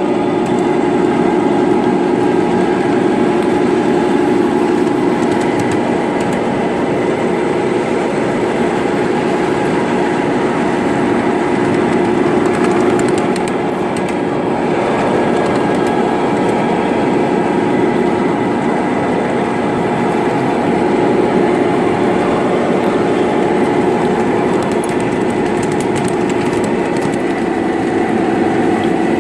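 Small engine of a ride-on miniature QR 2100 class locomotive running steadily on the track, a constant engine note with rail noise.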